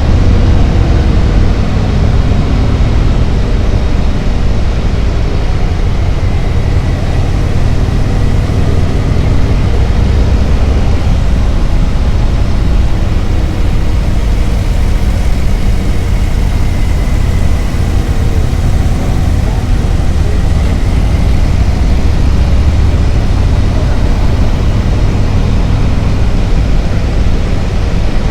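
Harley-Davidson Road Glide's V-twin engine running steadily at road speed, mixed with heavy wind rush on the microphone; loud and even, with slight rises and falls in engine pitch.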